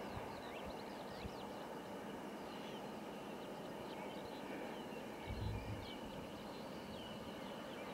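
Small birds chirping and twittering over a quiet, steady outdoor background, with a brief low rumble about five seconds in.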